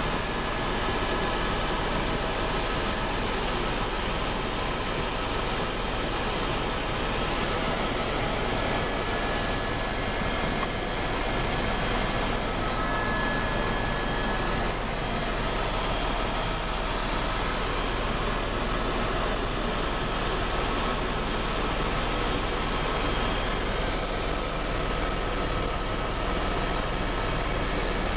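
Helicopter engine and rotor running steadily: a continuous rushing noise with a faint steady whine over it.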